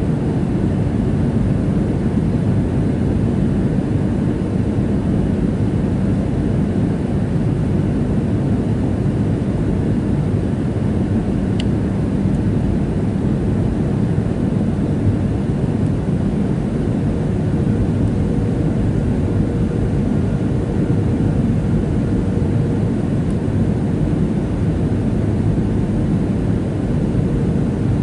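Steady cabin noise of a Boeing 737-700's CFM56 jet engines and airflow heard from inside the passenger cabin, an even low rumble with a faint steady hum and one small click about twelve seconds in.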